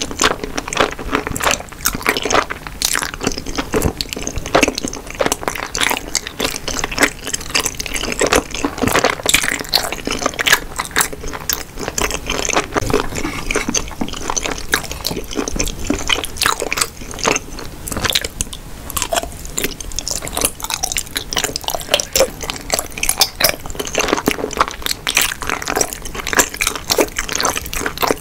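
Close-miked chewing of kimbap and tteokbokki rice cakes: a dense, continuous run of small mouth clicks and smacks as mouthful after mouthful is eaten.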